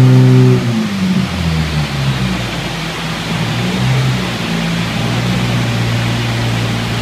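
Honda Civic Type R EP3's 2.0-litre i-VTEC four-cylinder, breathing through a GruppeM intake and Spoon N1 backbox, running hard at the top of a dyno pull, then the revs dropping away about half a second in. It then runs on at a lower, unsteady note as the car coasts down on the rollers.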